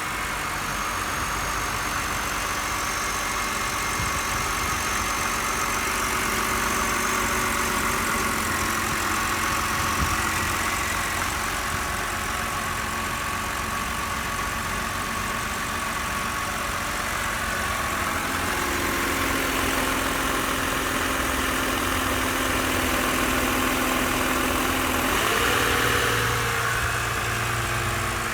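An engine running at idle with a steady hiss over it. The pitch briefly shifts a little about three quarters of the way through.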